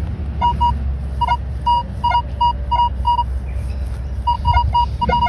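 Minelab Equinox 900 metal detector giving repeated short beeps at one steady pitch as the coil is swept back and forth over a buried target, which the detectorist reads as a penny or 2-cent coin. The beeps come in irregular groups of two or three, over a steady low rumble.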